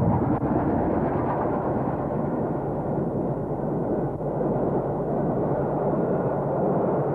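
A train passing at speed: a steady rumbling roar with no clear rhythm.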